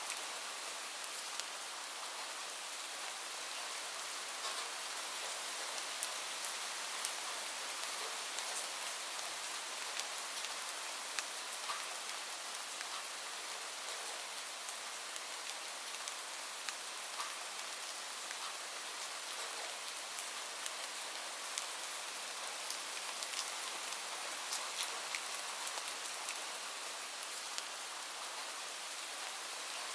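Steady rain falling on a surface, with a dense hiss and many individual drops ticking in it.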